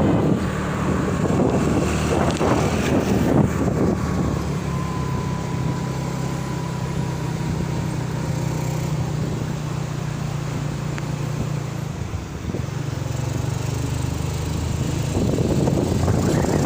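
Truck engine running at a steady pitch while driving, with road noise. The engine note changes and grows louder near the end.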